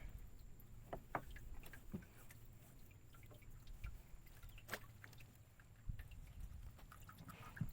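Faint water dripping and lapping, with a few short sharp clicks and taps scattered through, over a low steady rumble.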